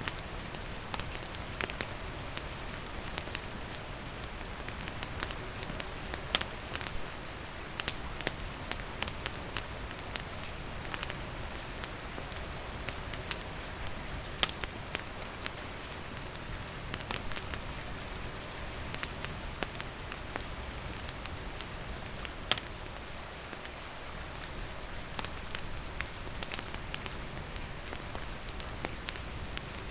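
Steady rain falling, with a wood campfire crackling in sharp, irregular pops over the hiss.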